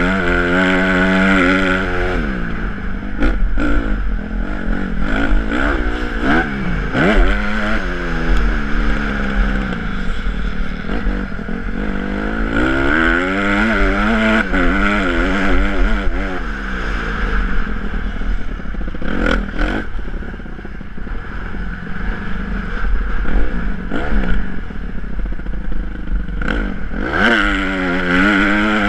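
Honda CRF150R's four-stroke single-cylinder engine revving hard and backing off over and over as the motocross bike is ridden around a track, with a few sharp knocks and clatter along the way.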